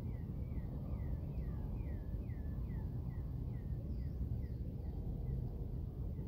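A bird calling in a long series of short, down-slurred chirps, about two or three a second, fading away near the end, over a steady low rumble.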